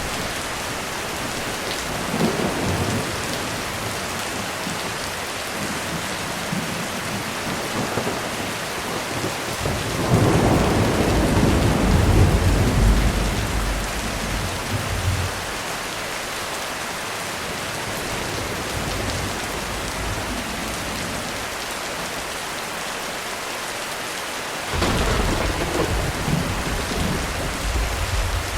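Heavy rain pouring steadily on a roof, with rolls of thunder: a long low rumble about a third of the way in and another starting near the end.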